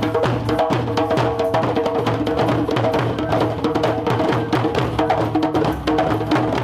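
Japanese taiko drums beaten rapidly and continuously by a group, with sharp wooden clacks among the strikes and a steady ringing tone underneath.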